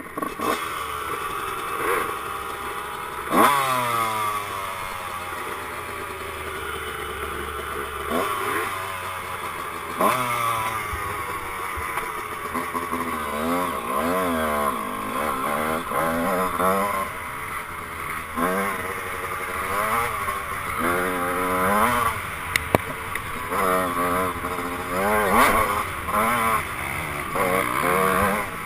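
1996 Honda CR125's two-stroke single-cylinder engine revving hard and falling away in pitch, then rising and dropping quickly over and over as the throttle is worked on and off.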